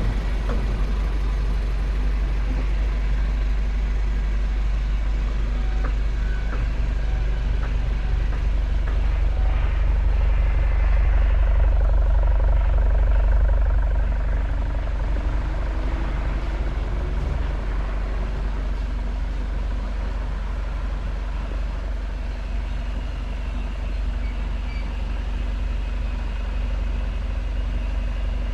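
2019 Honda Fit's 1.5-litre four-cylinder engine idling through a Thunder aftermarket full exhaust with header, metal catalyst, mid-pipe and single-canister muffler. It runs steadily with a deep hum, swells a little in the middle, then settles back to a slightly lower, even idle.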